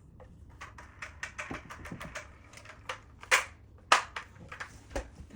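Hard plastic vacuum-cleaner attachments and packaging being handled: a quick run of small clicks and taps, with two louder sharp clicks a little past the middle.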